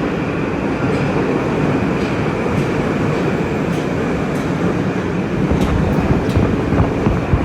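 Moscow Metro train running between stations, a loud steady rumble with a few faint scattered clicks.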